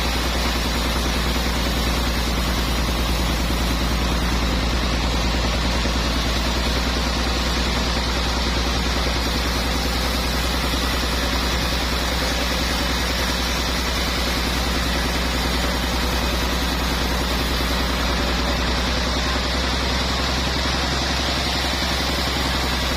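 Sawmill machinery running steadily at an even speed: an unchanging low drone with a hiss over it, and no rise or fall that would mark a cut.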